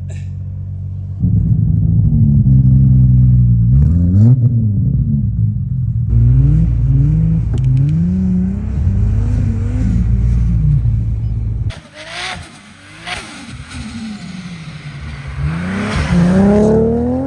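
Tuned Toyota Supra MK4's turbocharged 2JZ inline-six revving up and down again and again as the car tries to drive out of deep snow where it is stuck. About twelve seconds in the engine note turns thinner and hissier, and near the end the revs climb once more.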